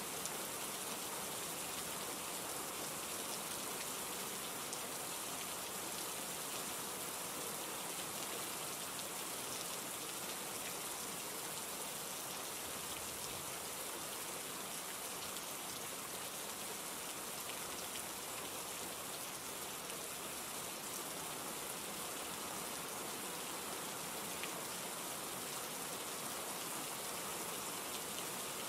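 Steady rain falling, a constant hiss of drops on a surface with faint scattered individual drop ticks.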